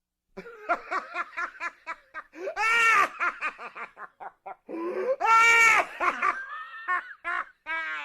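A person laughing hard in quick, rapid "ha-ha-ha" bursts about five a second, breaking twice into long, loud, high-pitched shrieks of laughter.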